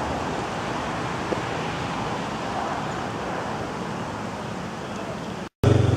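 Steady outdoor background noise of wind and distant traffic. Near the end the sound cuts out for a moment, then a small engine starts running loudly with a steady, low, pulsing note.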